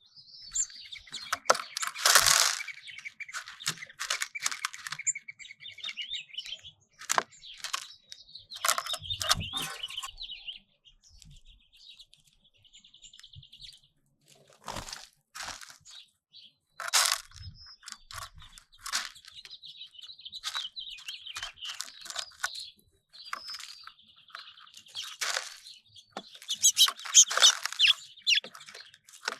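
Small songbirds at a feeder chirping and twittering: many short calls overlapping. There is a quieter stretch about a third of the way in and a busier burst of calls near the end.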